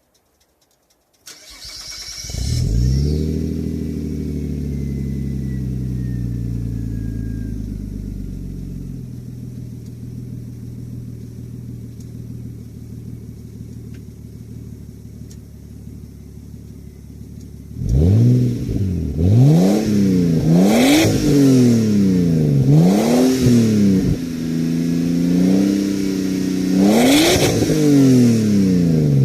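Nissan Skyline ER34 25GT-t's RB25DET turbocharged straight-six, through a V.S.S. aftermarket muffler, starting about a second in and idling at a raised speed that settles lower over several seconds. From about two-thirds of the way through it is free-revved: four quick blips, a held rev, then one more blip, each rising and falling in pitch.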